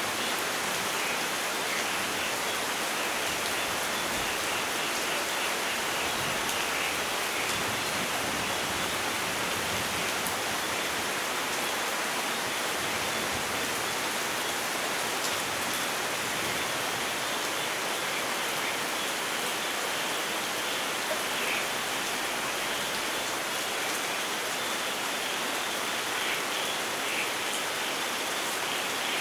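Steady rainfall: an even, unbroken hiss of rain with a few sharper single drops.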